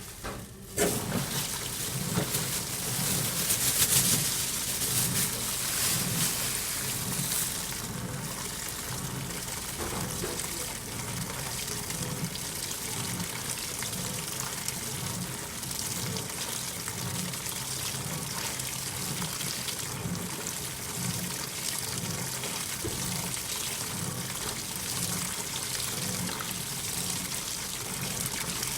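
AQUA 5 kg coin-operated washing machine filling its tub: water starts running in suddenly about a second in, louder for the first several seconds, then settles to a steady flow.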